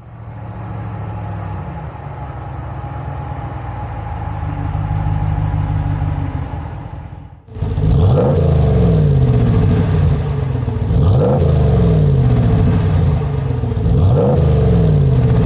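A 2019–20 RAM 1500's 5.7L Hemi V8 exhaust through a Flowmaster Outlaw direct-fit muffler. It idles steadily at first, then after a cut about seven seconds in it is louder and is revved three times, each rev rising sharply and settling back slowly.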